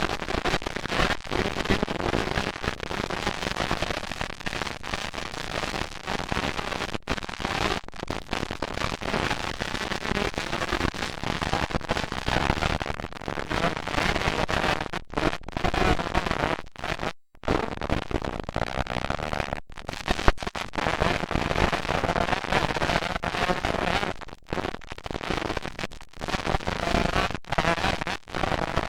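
Several 125cc two-stroke motocross bikes racing, engines revving up and down with a crackling, popping exhaust note. The sound breaks off briefly a few times, most clearly about halfway through.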